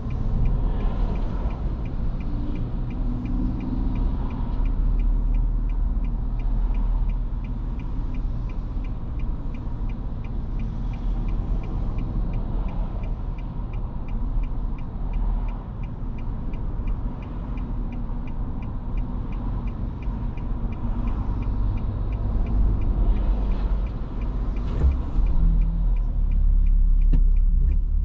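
Road noise inside a moving car's cabin on Bridgestone Regno tyres: a steady low rumble of tyres and engine. Near the end the engine note rises as the car speeds up.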